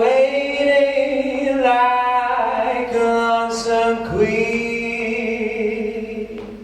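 Music: a voice singing long held notes without words, over a steady low tone.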